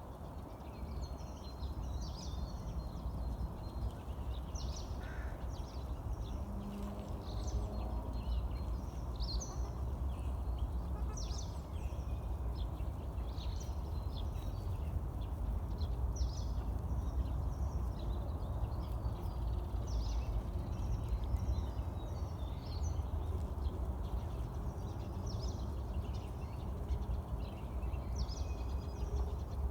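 Small birds chirping with many short high calls throughout, over a steady low rumble of outdoor background noise.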